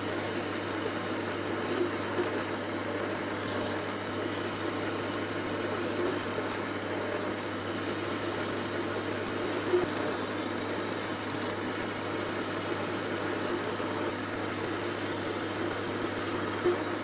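Metal lathe running steadily while turning a steel diameter down, with a thin high tone from the cut that comes and goes every couple of seconds.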